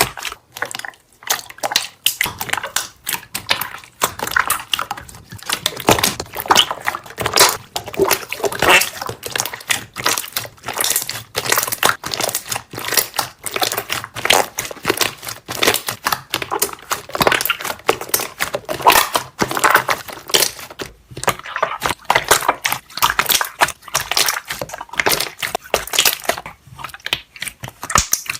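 Slime being squeezed and pressed by hand, its trapped air bubbles popping in a dense, continuous crackle of small clicks and squelches.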